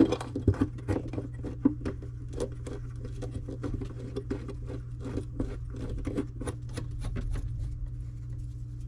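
Small irregular clicks, taps and light scrapes of faucet parts and washer being handled and positioned during the fitting, over a steady low hum.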